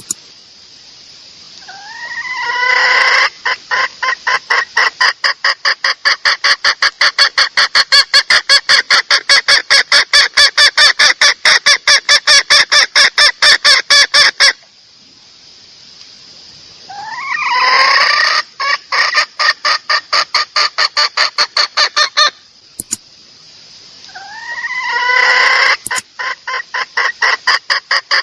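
Junglefowl hen calls of the kind used to lure a male: three bouts, each starting with a rising drawn-out note and running into a long, fast series of loud clucks.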